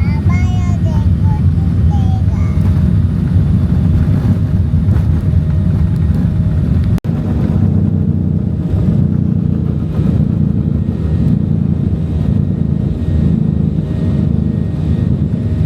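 Airliner cabin noise: a loud, steady, low rumble of the engines and airflow heard from a seat inside the cabin. It breaks off for an instant about seven seconds in and then carries on unchanged.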